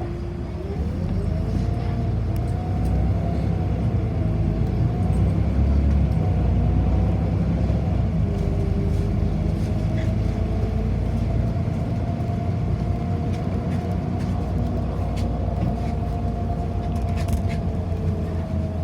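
City bus driving, heard from inside: a heavy steady rumble, with a drivetrain whine that rises as the bus picks up speed about a second in, then holds fairly level.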